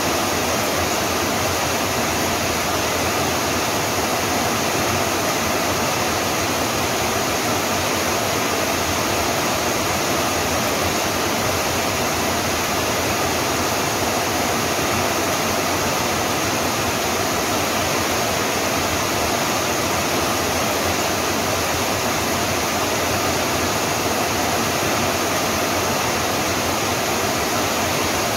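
Rain falling steadily, an even continuous hiss with no change in level.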